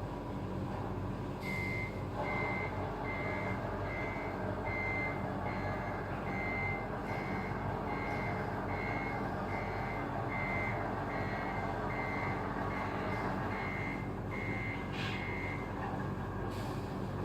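Reversing alarm of a radio-controlled Scania truck model beeping at an even pace, a little more than one beep a second, over a steady engine-like drone. The beeping starts about a second and a half in and stops a little before the end.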